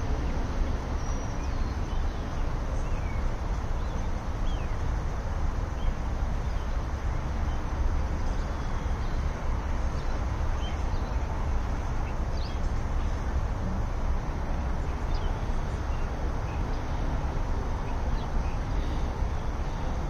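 Faint, scattered short chirps and squeaks from small perched birds over a steady low outdoor rumble.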